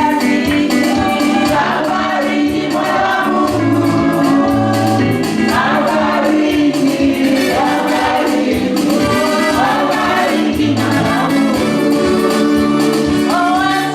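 Gospel worship music: a group of voices singing together over amplified instruments with a steady bass line and beat.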